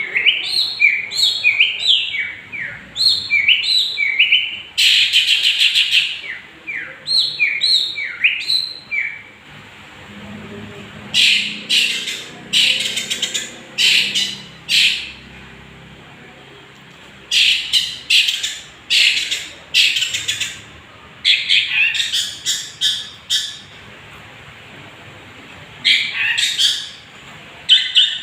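Young long-tailed shrike (cendet) singing energetically: quick runs of short rising whistled notes, then groups of harsh, scratchy chattering calls separated by short pauses.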